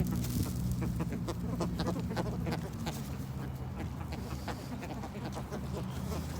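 Domestic fowl calling in a string of short calls, over a low steady hum.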